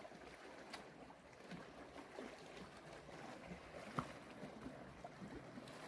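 Faint lakeshore ambience: lake water gently lapping among rocks, with scattered small ticks and one sharper click about four seconds in.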